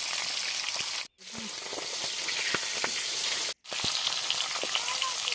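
Food frying and sizzling in hot oil in a pan, a steady hiss. The sound cuts out completely for a moment twice, about a second in and again past halfway.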